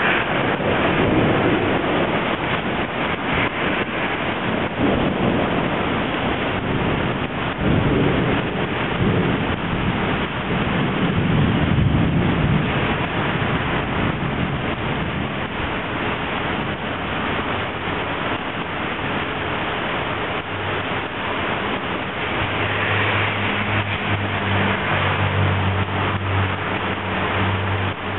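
Heavy rain pouring down, a steady hiss. There are low rumbles in the first half, and a low droning hum for several seconds near the end.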